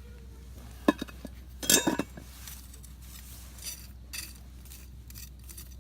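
Metal utensils clinking against camp cookware: a couple of sharp clinks about a second in, a louder cluster just before two seconds in, then a few lighter ticks.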